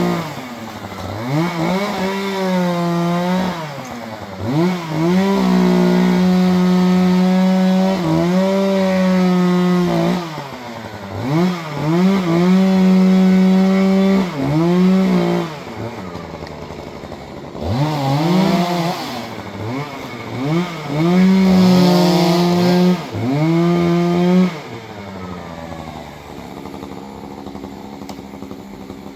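Two-stroke chainsaw engine revved to full throttle again and again, each time held high for a few seconds, as in cutting. It settles back to a quieter idle for the last few seconds.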